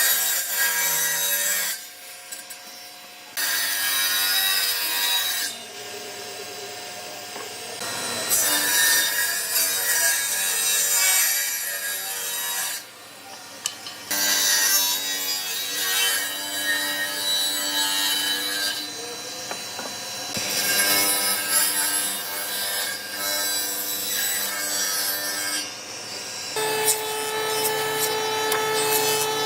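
A tool sawing or scraping through wood in spells of a few seconds, broken by short pauses.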